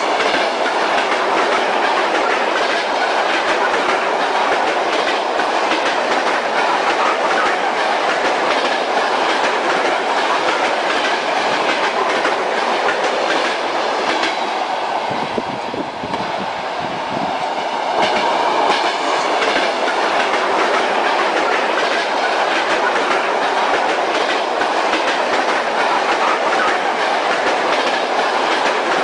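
Train wheels clacking over rail joints as a train rolls steadily along the track, heard as a passenger would hear it riding in the carriage. The steady rumble thins briefly in the highs near the middle, then carries on.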